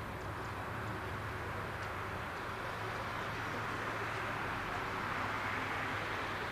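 Distant jet airliner engine noise, a steady rush over a low hum that swells slightly about five seconds in.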